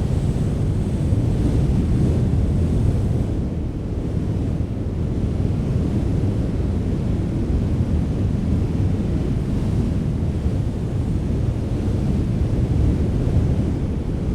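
Strong wind blowing steadily, a low, rumbling rush that swells and eases a little.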